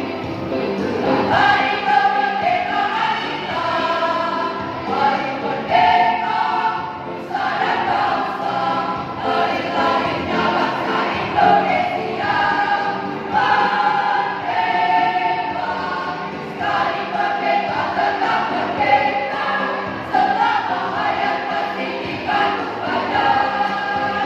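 Women's choir singing a song in parts, with notes held and changing about every second.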